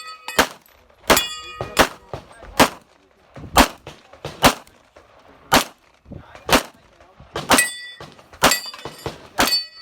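Rapid, evenly paced pistol fire in .40 S&W, about one shot a second, several of the shots followed by the ringing clang of a hit steel target.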